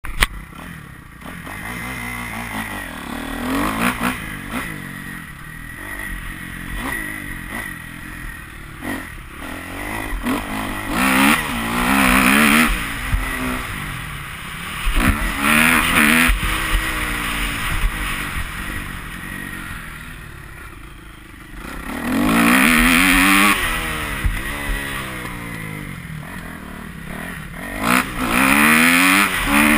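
Kawasaki KX250F four-stroke single-cylinder motocross bike engine revving up and down through repeated throttle bursts, its pitch rising and falling. It is loudest in four bursts, about a third of the way in, around the middle, about three-quarters in and near the end.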